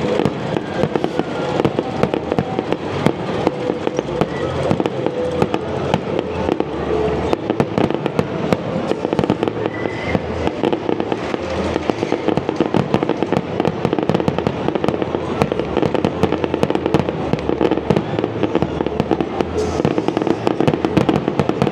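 Fireworks display going off: a dense, unbroken run of crackling pops over repeated low booms.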